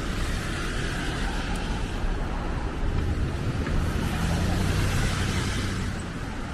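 Steady road traffic noise: a vehicle's engine rumbling low under a broad hiss of tyres on the road.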